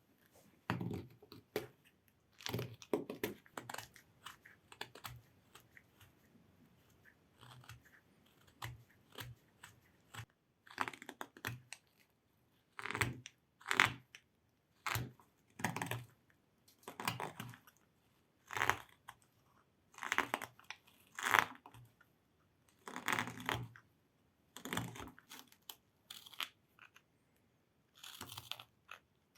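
Hand carving blade cutting into hard jatoba wood in short scraping strokes. The strokes are sparse at first, then come about once a second.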